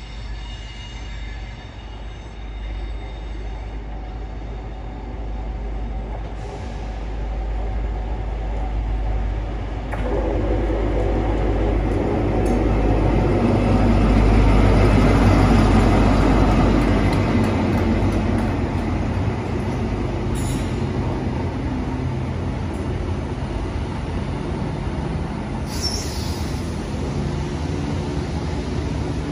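Class 43 HST power car and the coaches of the New Measurement Train running slowly through a station platform. The sound builds to its loudest about halfway through as the power car passes, then settles into the steady rolling of the coaches, with a couple of brief high wheel squeals near the end.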